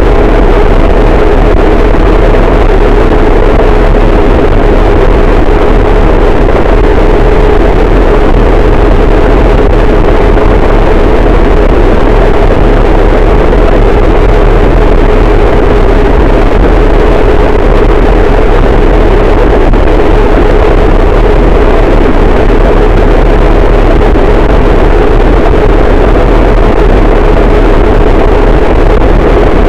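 Harsh noise wall: a very loud, dense wall of distorted static that stays unchanged throughout, heavy in a low rumble with a steady mid-pitched drone running through it.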